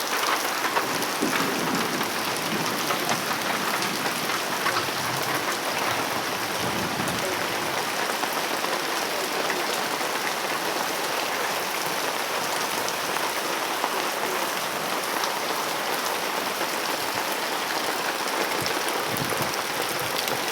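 Heavy rain falling steadily: a dense, even hiss with fine patter of drops.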